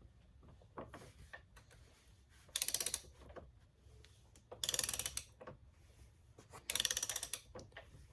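Ratchet wrench clicking in four quick bursts about two seconds apart, turning a cap wrench to loosen the oil filter housing cap, with a few light knocks of the tool in between.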